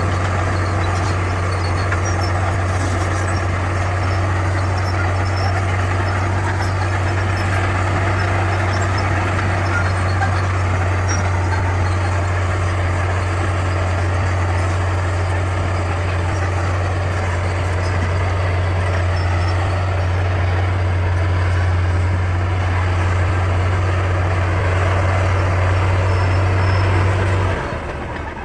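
Bulldozer's diesel engine running steadily with a deep, even drone, cutting off abruptly near the end.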